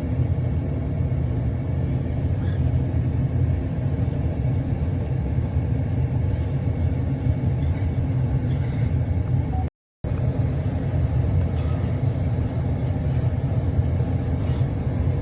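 Steady low engine rumble, unbroken except for a brief dropout to silence about ten seconds in.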